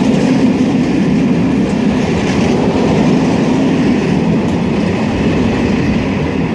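A train passing close by on the main line, with a steady loud rumble and clatter of wheels on the track.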